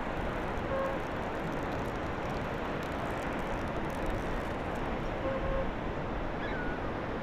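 Steady wind and surf noise on an open beach in strong onshore weather, with a few faint, short high tones.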